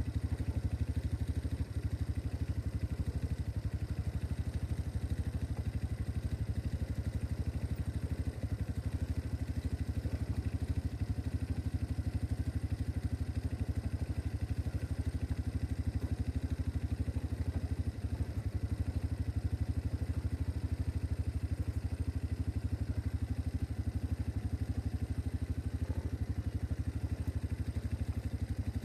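2025 MB Glock 200cc quad's engine idling steadily, with an even, rapid low beat that holds the same speed throughout.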